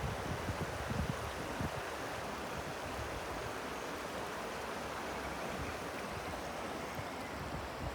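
Steady rush of flowing river water, with low wind buffeting on the microphone in the first couple of seconds.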